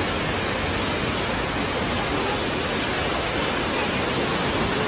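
Steady, even rushing of heavy storm rain, with no pitch or rhythm.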